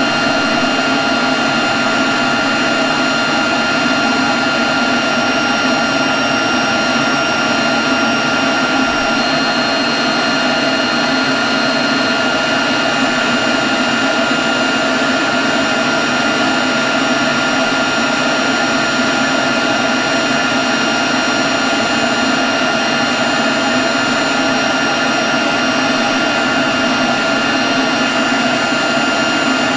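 Leaf blower running steadily at constant speed: a loud, even rush of air with a high fan whine over it, no revving or breaks.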